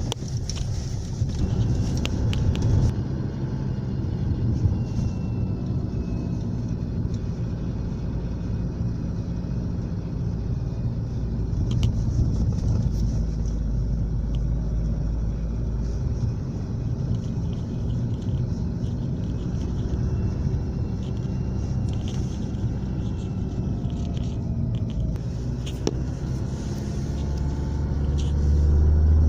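Toyota car engine running steadily with a low hum, swelling louder near the end.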